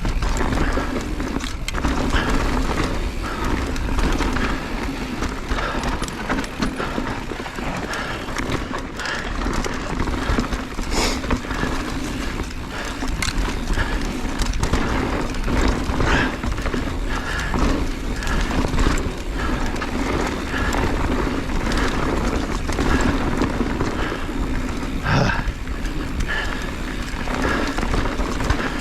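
Mountain bike riding fast downhill on a dirt singletrack trail: a steady rush of tyre and wind noise with frequent sharp knocks and rattles from the bike over roots and rocks.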